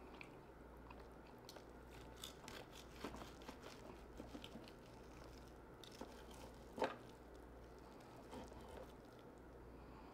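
Faint close-up chewing with soft crunches, mixed with light clicks of a steak knife and fork cutting meat on a wooden board. One sharper click comes about seven seconds in.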